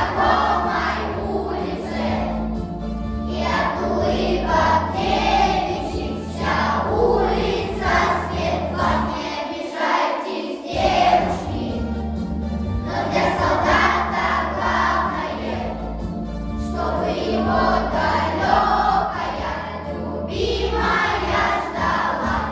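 A children's class choir singing a song in phrases with short breaths between, over instrumental accompaniment; the low accompaniment drops out briefly about ten seconds in.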